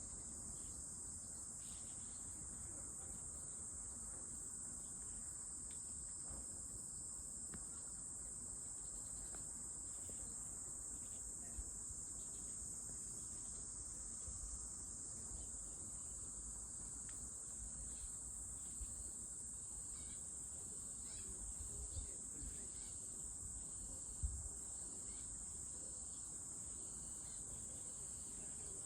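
Insects singing in one steady, unbroken high-pitched drone, with a few faint ticks now and then.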